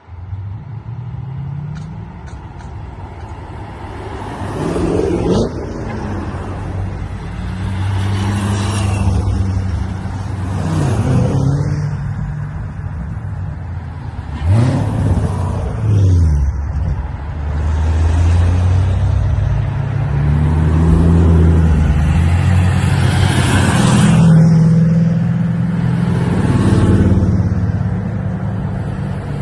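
A line of Corvettes driving past one after another. Each engine's pitch drops as the car goes by, over a steady low rumble from the cars still idling or creeping along.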